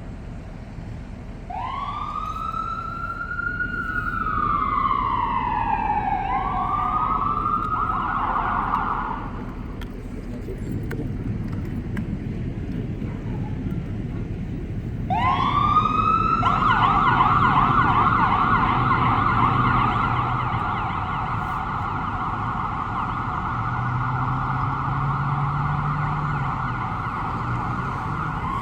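Emergency vehicle siren: a slow wail rises and falls, then cuts out about ten seconds in. About five seconds later it starts again and switches to a fast yelp, over a low engine rumble.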